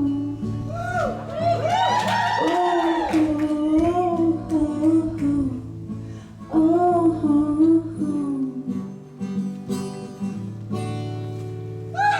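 Live song with guitar accompaniment and a woman singing wordless held notes with vibrato over it.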